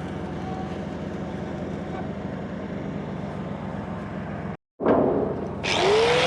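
Engine of a tow-behind welding generator running steadily. After a short break about 4.5 seconds in, an angle grinder starts up, its whine rising and then holding steady.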